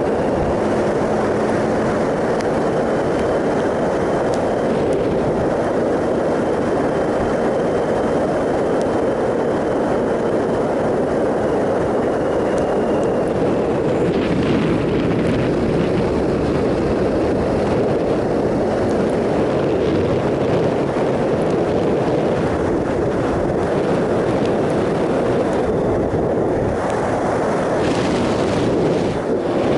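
Triumph Sprint ST 1050's three-cylinder engine running at a steady cruise, mixed with a steady rush of wind over the microphone.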